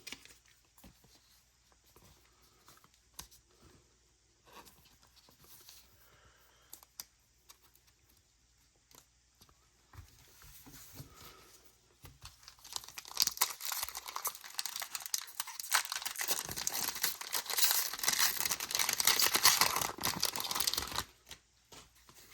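Faint clicks of cards being handled, then about twelve seconds in, a foil Pokémon booster pack wrapper being torn open and crinkled for about eight seconds, stopping suddenly near the end.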